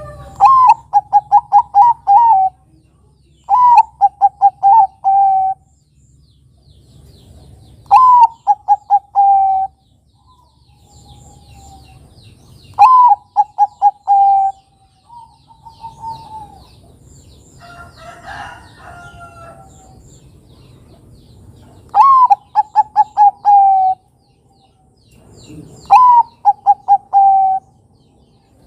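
Bangkok-type zebra dove (perkutut) cooing: six loud song phrases, each a higher opening note followed by a quick run of short rolling coos. Fainter bird calls sit in the gaps between phrases.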